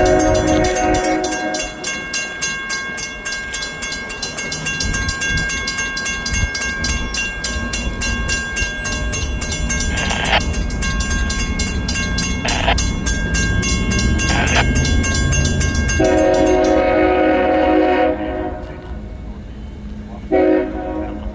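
A grade crossing's mechanical bell rings rapidly and steadily, then stops about 17 seconds in as the gates come down. A GE ES44AH locomotive's air horn blows over it: a long blast at the start, short blasts in the middle, another long blast about 16 seconds in and a brief toot near the end. The low rumble of the approaching locomotive builds through the middle.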